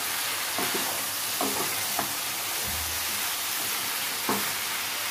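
Soya chunks and potatoes in spice paste sizzling steadily in a frying pan as a wooden spatula stirs them, with a few short scrapes of the spatula against the pan. The spices are being fried down (kosha) with the soya and potatoes.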